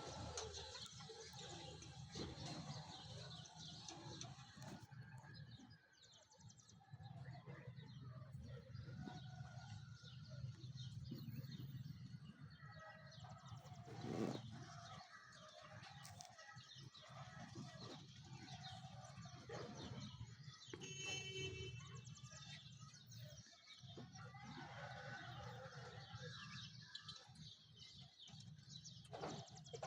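Birds chirping and calling on and off in the morning, over a faint steady low rumble.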